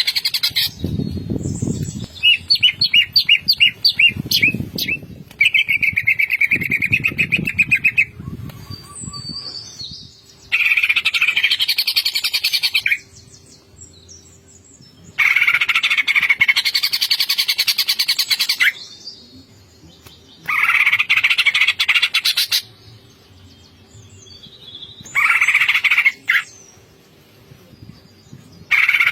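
Greater green leafbird (cucak ijo) singing in loud bouts of rapid, rattling trills, the 'ngentrok' style, each bout lasting two to three seconds with short pauses between them.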